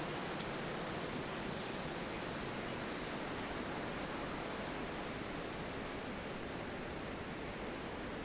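Wind rushing steadily through forest trees, an even hiss without distinct bird calls.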